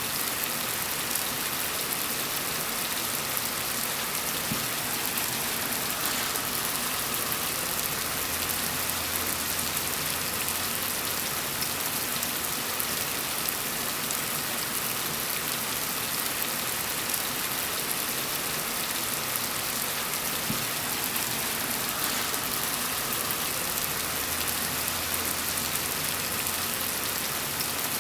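Gentle rain falling steadily, an even hiss of drops on surfaces with no let-up. A faint low rumble swells underneath twice.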